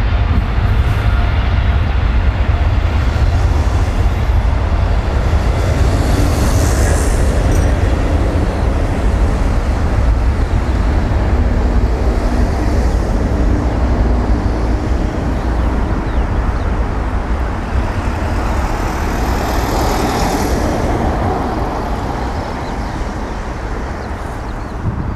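Loud, steady low engine rumble with a rushing noise over it, swelling into a hissing whoosh about six seconds in and again about twenty seconds in.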